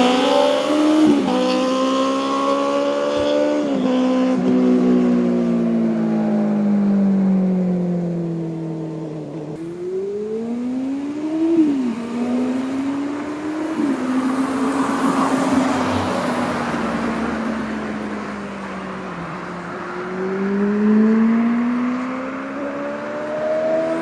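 Benelli TNT600i's inline-four engine through an IXIL aftermarket exhaust, revving up and down as the bike is ridden. The pitch climbs and then drops sharply about a second in, near four seconds and near twelve seconds, like upshifts. Between climbs there are long falling stretches as the revs die away.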